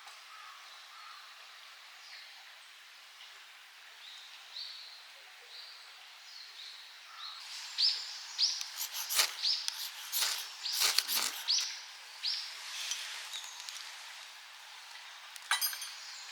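Small birds calling with short, repeated chirps. About halfway through comes a loud cluster of sharp clicks and knocks, and a quick rattle of clicks follows near the end.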